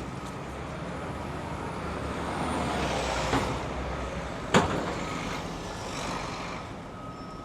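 City street traffic, with a heavy road vehicle passing. Its noise swells over the first few seconds, then there is a sharp clack about four and a half seconds in.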